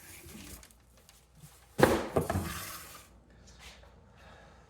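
A heavy box and its contents being handled and unpacked: one sudden clunk about two seconds in, with quieter shuffling around it.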